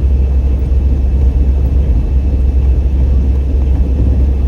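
Car driving along a street: a steady low rumble of engine and road noise.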